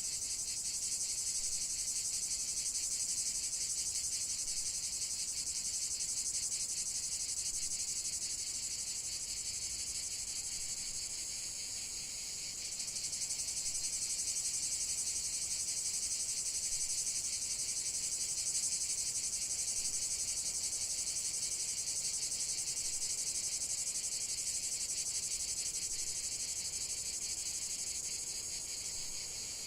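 A steady, high-pitched chorus of chirring insects, typical of crickets, with a fast fine pulse that softens briefly about twelve seconds in.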